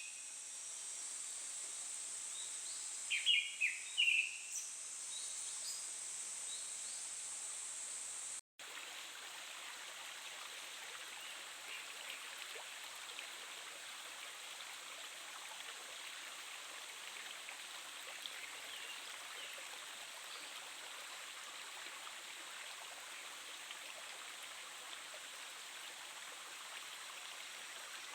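A Japanese thrush sings one short phrase of quick, varied whistled notes about three seconds in, over a steady high hiss. After a brief break about eight seconds in, the sound becomes the steady rush of a stream.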